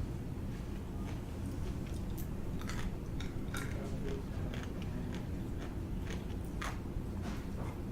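Close-up eating sounds: a person chewing and biting, with scattered small crunches and mouth clicks over a steady low hum.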